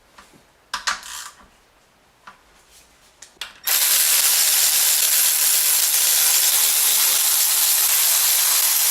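A few light metal clicks and clinks, then about three and a half seconds in an air ratchet starts running steadily with a loud hiss, spinning off the loosened camshaft journal cap nuts on a BMW M52 engine.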